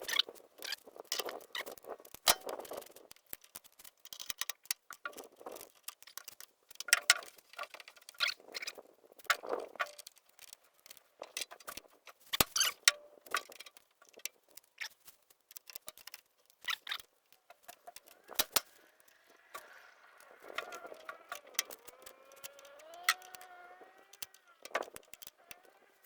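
Scattered clicks, clinks and scrapes of metal hardware and hand tools while battery cables and terminal nuts are fitted. Near the end a faint pitched sound slides up and down for a few seconds.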